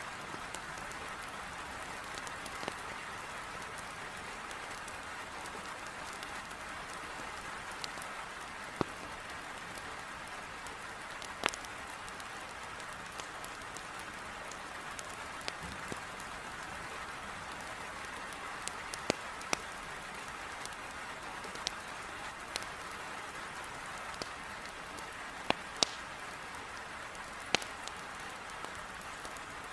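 Heavy rain beating steadily against a window, with a wood fire in a fireplace crackling underneath, giving a dozen or so sharp pops scattered through.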